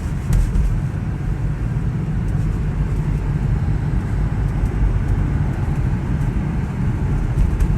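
Strong wind blowing across the microphone: a steady low rumble that rises and falls with the gusts.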